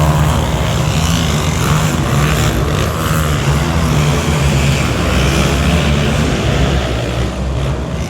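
Monster truck engine running loud with a steady low drone that wavers slightly in pitch.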